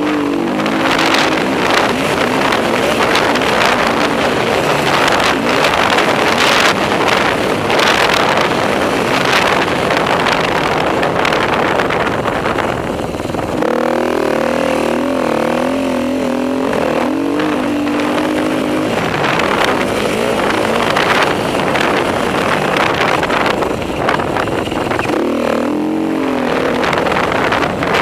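Enduro motorcycle engine ridden hard, its revs rising and falling constantly, with wind buffeting the microphone. About halfway through, and again near the end, the engine note eases into a wavering, lower pitch.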